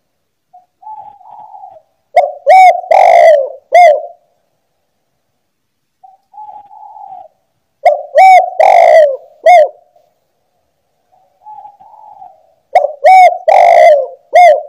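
Spotted dove (tekukur) cooing. It gives its call phrase three times, about every five and a half seconds. Each phrase is a soft opening coo followed by three or four loud, short coos.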